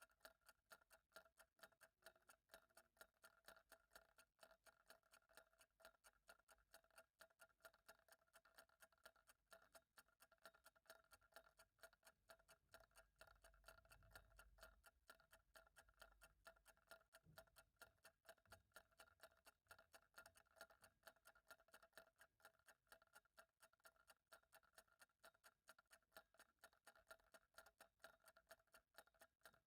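Faint clock ticking at a steady, even pace, with a brief low rumble about halfway through.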